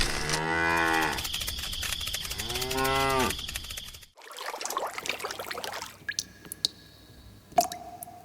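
A cow mooing twice, two long calls about two seconds apart, the second shorter. Softer scattered clicks and a short steady tone follow near the end.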